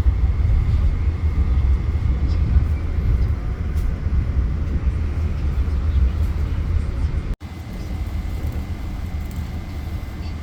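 Passenger train running along the track: a steady low rumble with a faint high steady tone above it. The sound drops out for an instant about seven seconds in, then goes on slightly quieter.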